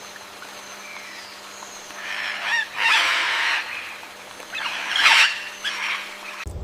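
Bird calling: two loud, harsh calls about two seconds apart, with a few fainter ones around them.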